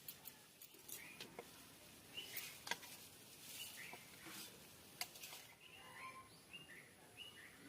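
Faint bird chirps, a string of short calls repeating every half second or so, with a few light clicks among them.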